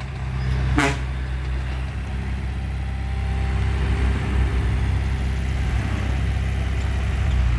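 Bulldozer's diesel engine running steadily and getting a little louder about a second in, with one brief sharp sound just before that.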